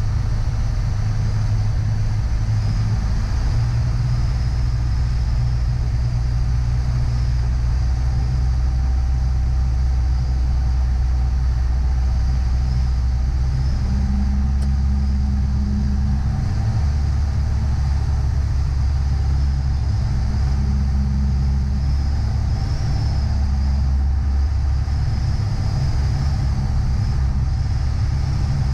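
Piper PA-28's single piston engine droning steadily on approach, with small shifts in pitch a few seconds in and again about halfway through as the power is adjusted.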